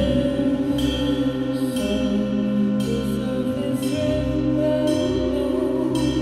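Band playing an instrumental passage: sustained chords with a ringing, bell-like stroke about once a second.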